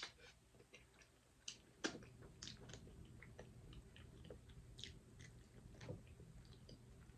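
Close-miked chewing and mouth sounds of a person eating seafood: soft, scattered wet clicks and smacks, with one sharper click about two seconds in.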